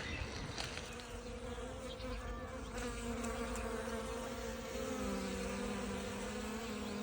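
A flying insect buzzing steadily with a single droning pitch that sets in about a second in and drops a little lower about five seconds in, over a faint forest background.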